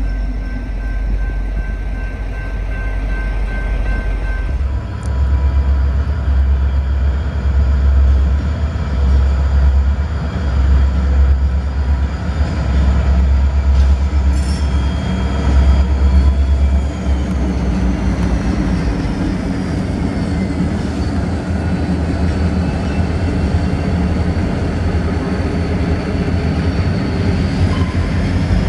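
A train rolling past, its cars running over the rails with a steady loud rumble that is heaviest for the first half and then eases off.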